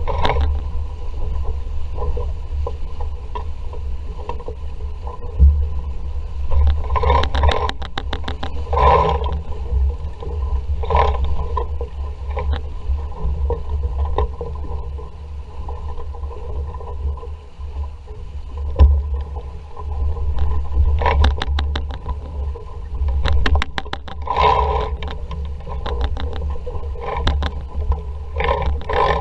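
Wind buffeting the microphone with a heavy steady rumble aboard an RS Vareo sailing dinghy in a strong breeze. Several bursts of rapid rattling come as the boat works through gusts and water.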